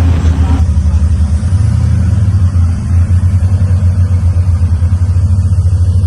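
Offshore powerboat's engines rumbling low and steady, with a fast even throb.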